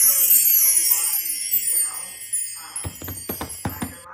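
Chimes ringing with a bright, high shimmer that slowly fades. A quick run of sharp clicks comes near the end.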